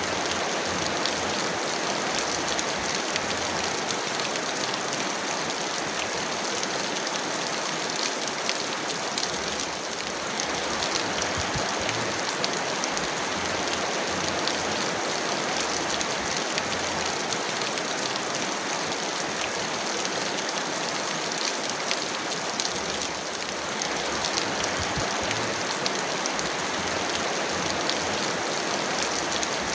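Heavy rain falling steadily: a dense, even hiss peppered with sharp ticks of individual drops, easing very slightly twice for a moment.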